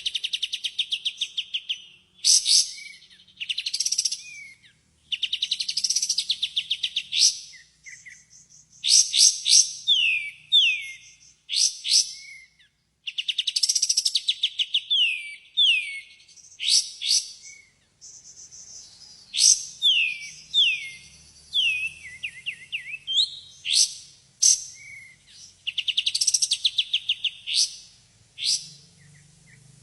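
Kapas tembak bulbul song played as a lure recording: phrases of rapid, high rattling trills alternating with short downward-sweeping whistled notes, repeating with brief pauses between phrases.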